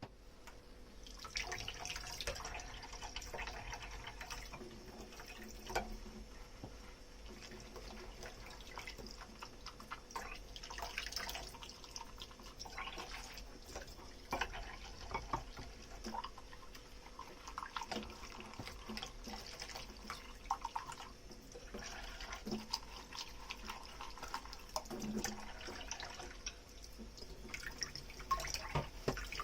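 Dishes being washed by hand in a kitchen sink: water running from the tap, splashing and dripping, with scattered small knocks and clinks of dishware.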